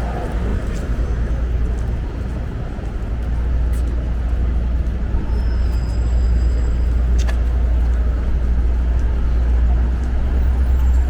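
City street traffic: a steady low rumble of passing vehicles, with a sharp click about seven seconds in.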